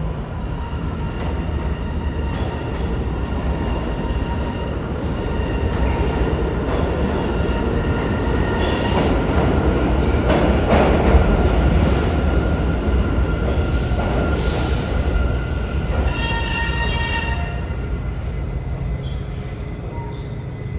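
Bombardier R179 subway train running through the station, a steady rumble with whining and squealing wheels that grows loudest about halfway through and then eases off. A short high squeal is heard near the end.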